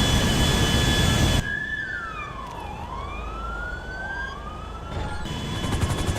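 Loud jet engine noise with a steady whine that cuts off abruptly about a second and a half in. Quieter siren-like tones follow, sliding down and back up, and loud fluttering noise returns near the end.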